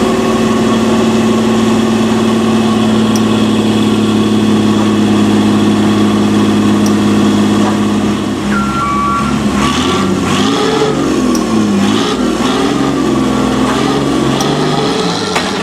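Truck diesel engine idling steadily. About halfway through, a two-tone reversing alarm starts beeping and the engine's pitch rises and falls as it is revved and the truck moves.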